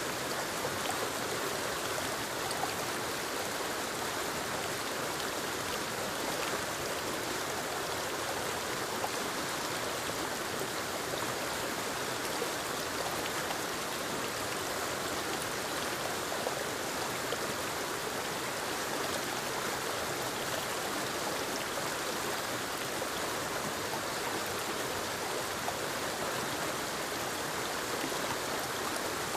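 Steady rush of a forest waterfall cascading over rocks into a stream, a constant white-noise wash of falling and splashing water.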